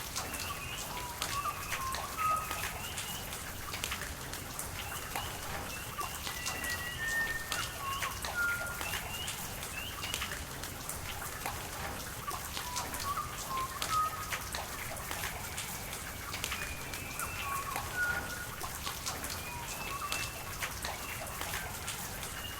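Rain falling steadily, with many sharp drops pattering, over rushing water, while birds give short high chirps and whistles again and again.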